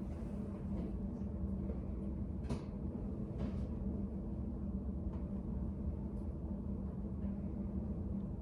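Study cafe room ambience: a steady low hum, with a few faint ticks or taps in the middle.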